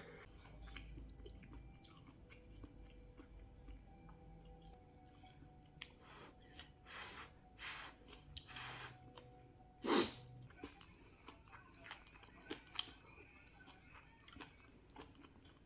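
A person chewing food close to the microphone, with scattered small clicks and one sharper, louder knock about ten seconds in.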